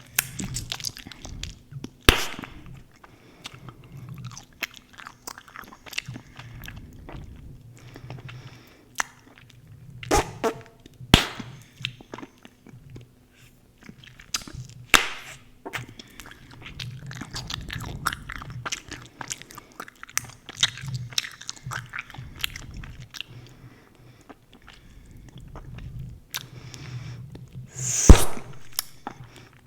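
Close-miked gum chewing: soft wet smacking and clicking with irregular sharp snaps, the loudest near the end.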